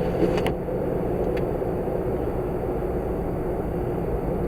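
Steady road, tyre and engine noise inside the cabin of an all-wheel-drive car on snow tires, driving at speed. A light click comes about half a second in.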